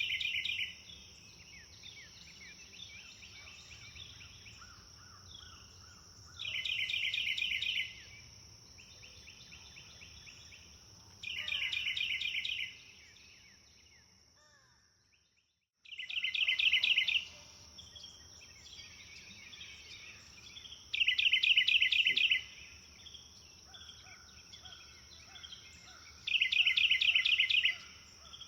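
Songbird ambience: one bird repeats a loud, rapid trilled phrase about every five seconds, over softer chirps from other birds and a steady high insect buzz. About halfway through, everything fades away to silence for a moment and then comes back.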